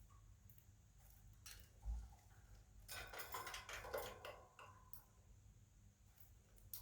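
Pet budgerigars, faint, with one short burst of quick chirping chatter about three seconds in and a few light clicks.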